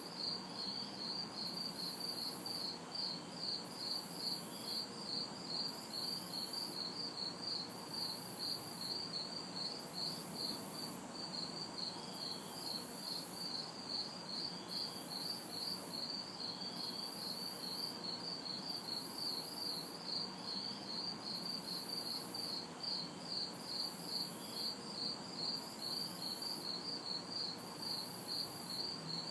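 Night insect chorus: crickets chirping steadily, several chirps a second, over a very high, hissing insect trill that switches on and off about every second and a half. A faint, even hum of distant city traffic lies underneath.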